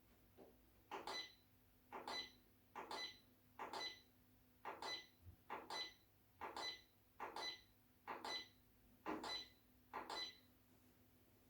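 Electric fireplace's control unit giving a regular series of short beeps, each with a click, a little more than one a second, about a dozen in all, as its buttons or remote are worked.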